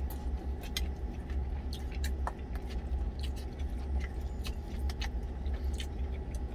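A man chewing a mouthful of rice mixed with vegetable tuna, with occasional light clicks over a steady low hum.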